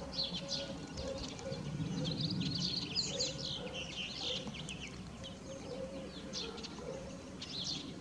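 Small birds chirping, many quick high calls scattered throughout, over a faint low background rumble.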